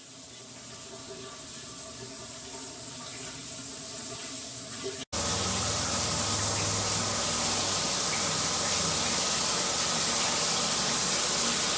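Water spraying steadily from an all-metal shower head, an even rushing hiss. It is softer and builds slowly for the first five seconds, then after a brief cut it comes in louder and stays steady.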